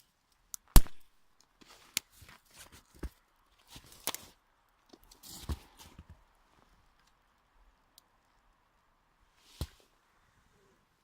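Dry twigs being broken by hand and added to a small kindling fire. A loud sharp snap comes about a second in, then several smaller cracks and rustles, and one more snap near the end.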